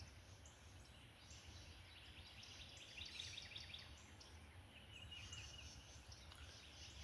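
Faint birdsong: several birds chirping and trilling in short, high calls, one rapid trill about three seconds in, over a faint low rumble.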